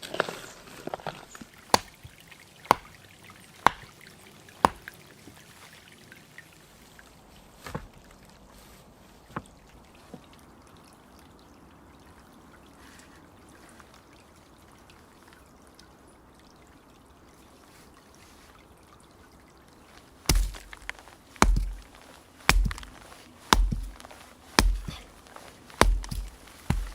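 Repeated blows of manual work: a few sharp knocks about a second apart, a long faint stretch, then heavy thuds about once a second near the end.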